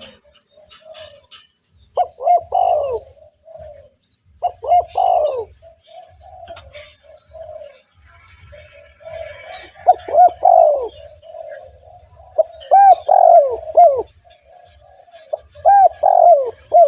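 Spotted dove cooing: about five loud phrases of a few low, arching coo notes, with softer coos in the gaps between them.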